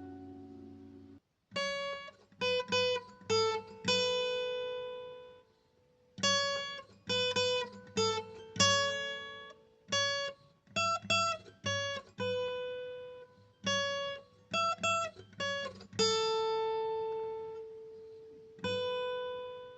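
Solo plucked string instrument playing a slow melody of single notes in short phrases, a few with small slides between pitches, ending on two long ringing notes. A chord rings out and dies away about a second in before the melody begins.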